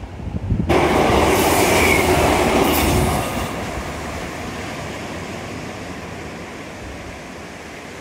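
A train passing on the seawall line. Its noise comes in suddenly under a second in, is loudest for about two seconds, then eases to a steadier, lower rumble, with a brief high squeal about two seconds in.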